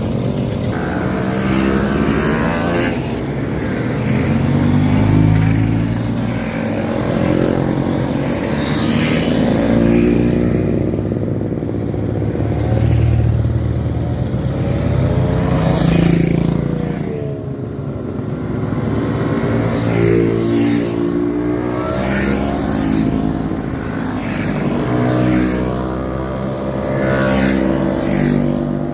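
Several classic motorcycles and Vespa scooters running together on the road, their small engines revving up and down one after another.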